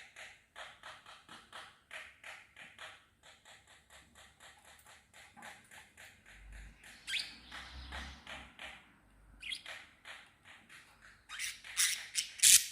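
Small birds chirping: a rapid, even run of short chirps at about five a second, then a short pause and a few louder chirps near the end.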